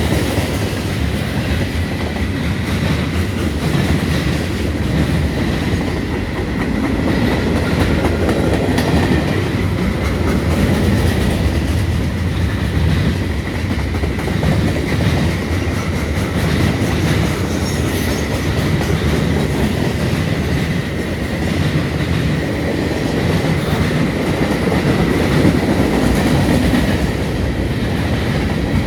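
Freight train wagons rolling past at low speed: a steady rumble with the clickety-clack of wheels over rail joints, and a thin, steady high whine from the wheels running on through it.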